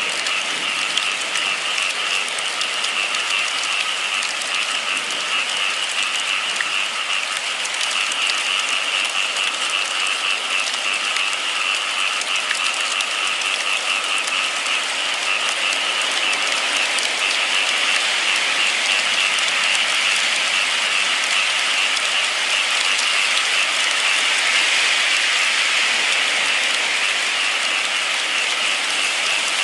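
Steady rain falling: a dense, even hiss with a rapid fluttering patter high up, going on without a break.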